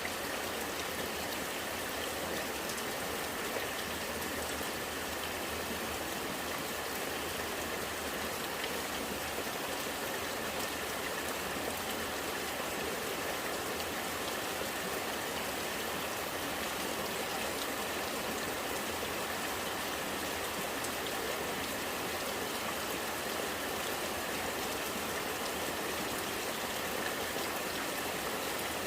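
Steady rain with running rainwater gurgling, an even unbroken wash of water noise.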